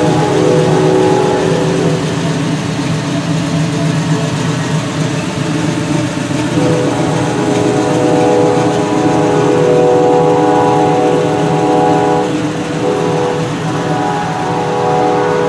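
1980 Chevrolet El Camino's 5.0-litre V8 running at a steady idle.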